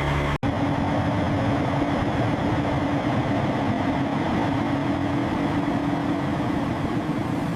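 A steady engine-like mechanical rumble with a faint hum, resuming after a brief cut-out just after the start.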